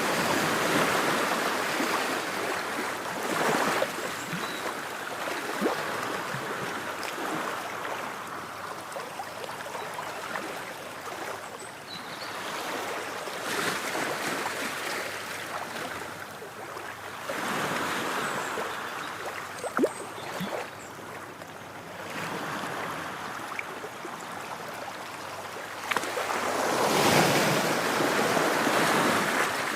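Ocean waves breaking and washing on the shore, each surge of surf swelling and then ebbing every few seconds, with a larger wave near the end.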